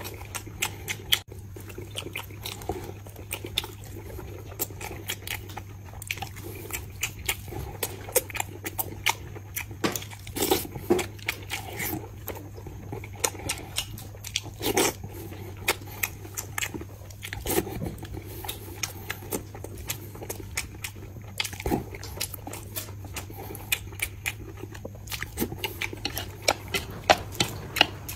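A man chewing boiled dumplings in chili oil close to the microphone, with irregular mouth smacks and clicks, over a steady low hum.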